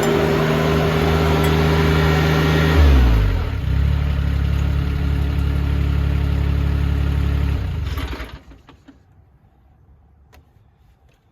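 Mahindra eMax 20 HST compact tractor's three-cylinder diesel engine running steadily. About three seconds in it is throttled down to a lower, steady speed, and about eight seconds in it is shut off, leaving a few faint clicks.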